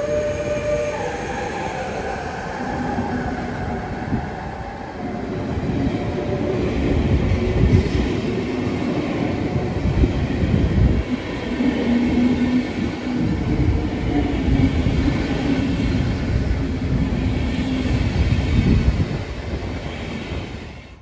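Passenger coaches of a departing locomotive-hauled train rolling past close by, the wheels rumbling and clacking over the rails and growing louder as the train gathers speed. A steady high tone dies away in the first second.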